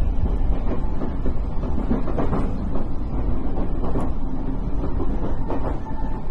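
Tokyo Metro 10000 series subway train running, heard from inside the car: a steady low rumble of wheels on rail with a few sharp clicks.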